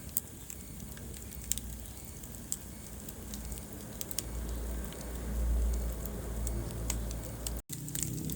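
Wood fire burning in a fireplace: a steady low rumble of flames with scattered sharp crackles and pops. The sound cuts out completely for a split second near the end.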